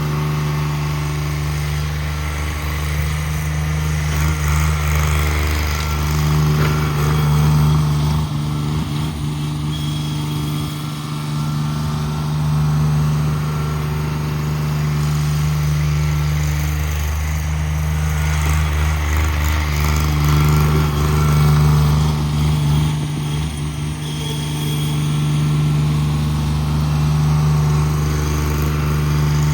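Cub Cadet 1782 garden tractor's twin-cylinder engine running steadily, its sound swelling and easing every several seconds.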